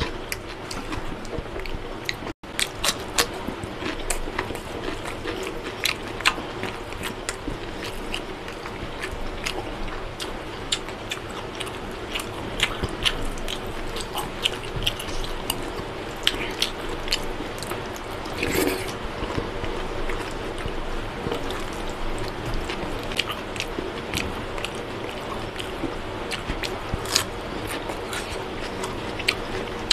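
Close-up mouth sounds of a person chewing mutton biryani: irregular wet smacks and clicks. Fingers squish and mix the rice on a steel plate.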